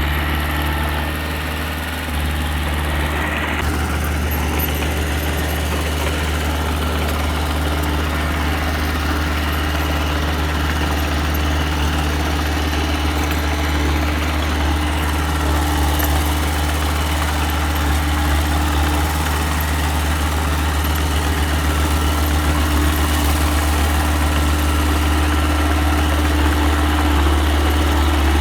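Diesel engine of a small earthmoving machine (mini dump truck or small bulldozer) running steadily at an even, low drone.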